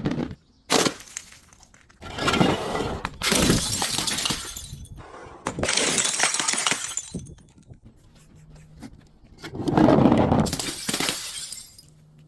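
Glass bottles shattering and crunching in about five separate bursts, each lasting a second or two.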